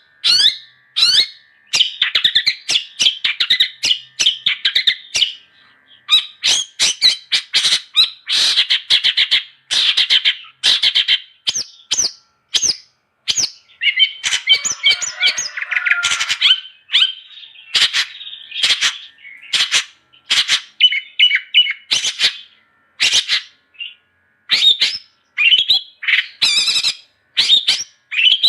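Long-tailed shrike (cendet) singing a long, varied song of rapid, harsh chattering notes and quick clicks. The song comes in dense bursts separated by short pauses.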